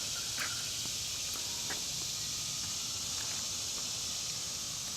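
Steady high-pitched background hiss with a few faint clicks and taps in the first couple of seconds.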